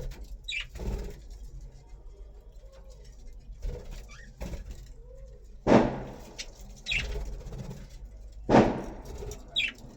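Budgies giving a few short, high chirps that fall in pitch, with two loud sudden thumps in the second half.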